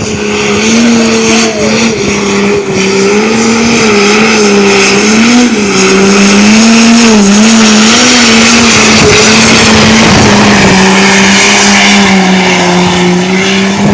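Farm tractor engine running hard at high revs under load, pulling the weight sled in a tractor pull. Its pitch wavers up and down through most of the pull, then holds steadier and dips slightly near the end.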